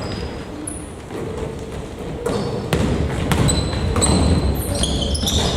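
A basketball bouncing on a gym floor, several separate thuds, with sneakers squeaking on the court in the second half.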